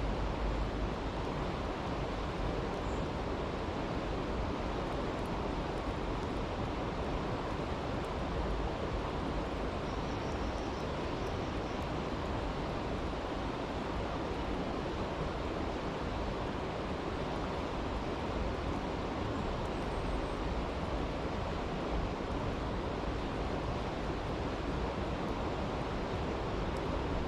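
A brook rushing steadily, an even, unbroken water noise.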